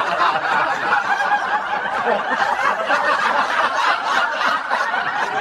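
Continuous laughter following a punchline, dense and unbroken throughout.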